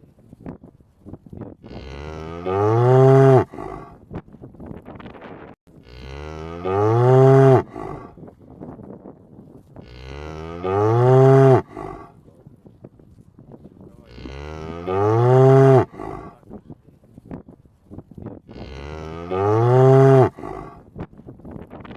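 A cow mooing: five long, loud moos about four seconds apart, each sliding up in pitch at the start and then held. The moos are so alike that the same moo seems to repeat. Faint crackling clicks fill the gaps between them.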